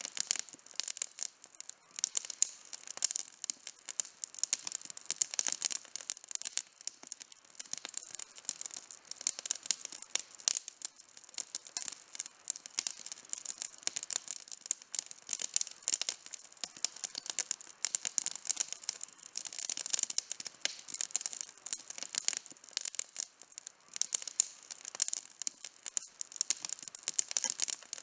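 Outdoor campfire burning, its wood crackling and popping in a dense, irregular stream of sharp snaps.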